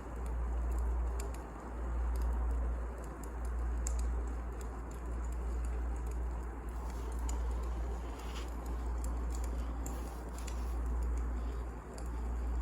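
Wood fire crackling, with scattered sharp pops and snaps over a low rumble that swells and fades every second or two.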